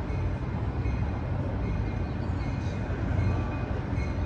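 Amtrak Capitol Corridor passenger train approaching the station, cab car first, making a steady low rumble.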